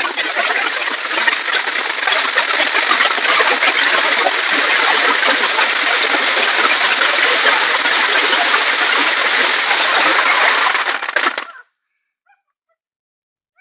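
Firework crackling: a loud, dense, unbroken rapid crackle that cuts off suddenly about eleven and a half seconds in.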